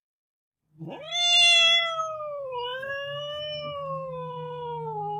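Domestic cat meowing: one long, drawn-out meow that starts about a second in, rises quickly, then slowly falls in pitch.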